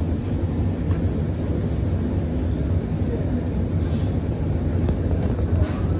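Steady low rumble of an Alstom Movia R151 metro car, heard inside the passenger cabin.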